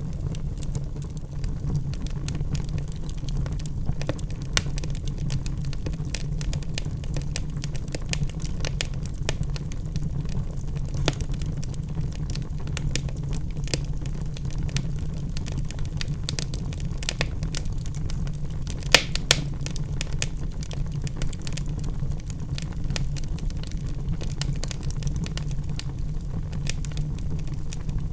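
Logs burning in a fireplace, crackling with many scattered sharp pops over a steady low rumble; the loudest pops come about two-thirds of the way through.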